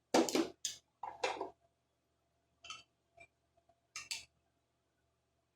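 Hand tools and small metal parts clinking and knocking: about six short, sharp clinks, the loudest at the start, while the carburetor is being bolted back on.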